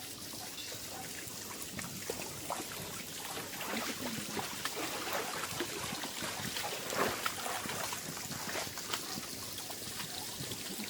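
Water trickling and splashing, with many small irregular clicks and a louder patch about seven seconds in.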